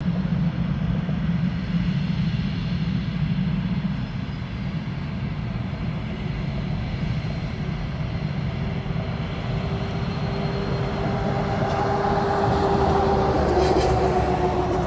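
Northrop F-5's twin turbojet engines running as it taxis: a steady rumble with a jet whine that comes in about two thirds of the way through and grows louder near the end.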